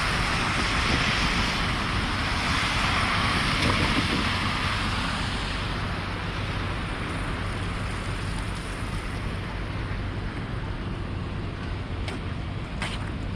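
City street traffic: a steady rumble and tyre hiss of passing vehicles, louder in the first few seconds and then easing off. Two short clicks sound near the end.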